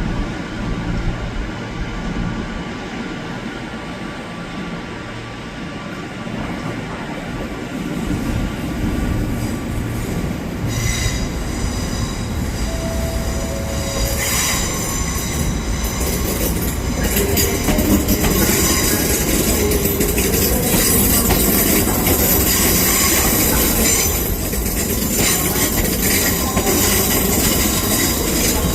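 A train running on the rails, a steady rumble that grows louder, with high-pitched wheel squeal setting in about halfway through and continuing.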